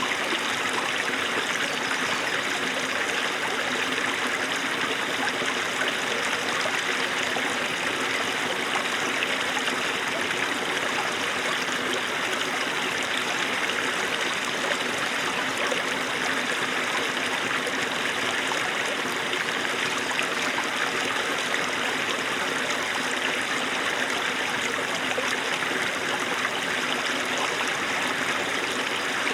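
A small snowmelt stream babbling and trickling over stones, a steady, even rush of running water.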